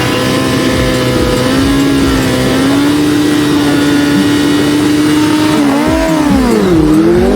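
Drag-racing motorcycle engine held at steady high revs, then the revs drop and climb back up twice near the end.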